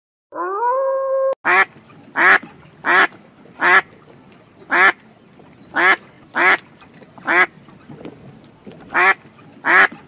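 Waterfowl giving a long series of short, harsh calls, roughly one a second. The series begins after a brief rising, whine-like call from a red fox that cuts off abruptly about a second in.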